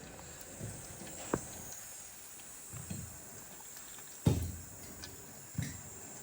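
Workshop handling noises from taking a truck steering column apart: a sharp click about a second in, then a heavier knock with a short tail a little past four seconds, and another knock near the end.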